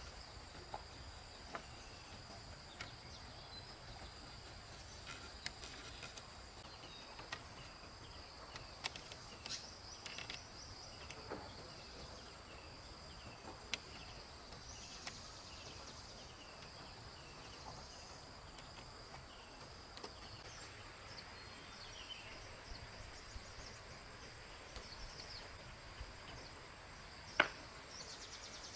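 Insects trilling steadily at two high pitches, with scattered faint clicks and taps. A string of short chirps comes about a third of the way in, and one sharper click near the end.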